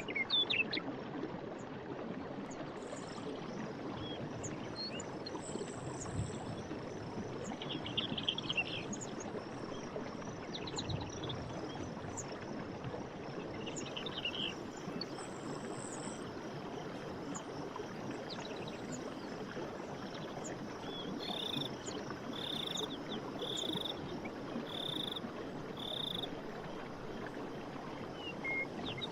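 Stream water running steadily, with birds chirping over it now and then and a series of five evenly spaced calls near the end.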